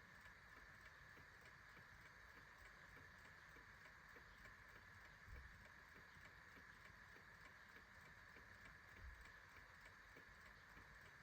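A clock ticking faintly and steadily over a steady hiss, with two soft low thumps, one about halfway through and one near the end.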